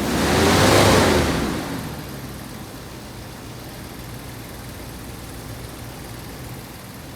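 2020 Ford F250 pickup engine revved once, its pitch rising and falling back within about two seconds, then settling to a steady idle.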